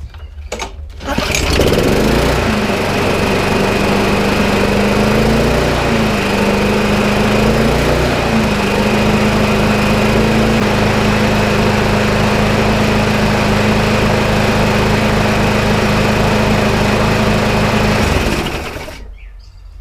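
Briggs & Stratton lawnmower engine starting about a second in, its speed dipping and picking up twice as it settles, then running steadily and smoothly before being shut off near the end. It is running with the throttle linkage disconnected, idling on its own.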